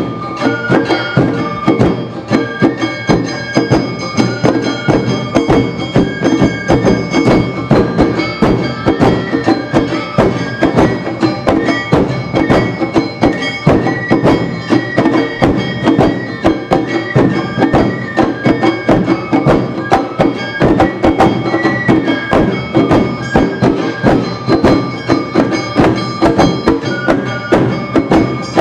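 Awa Odori festival music played live: bamboo flutes holding a melody over a fast, steady beat of drums and hand gongs.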